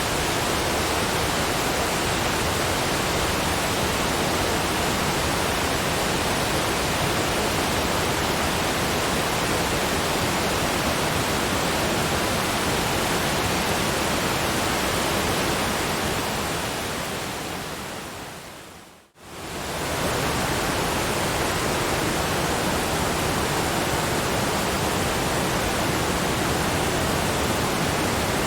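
Waterfall rushing in a steady, even roar of water. About two-thirds of the way through it fades gradually to near silence, then comes straight back at full level.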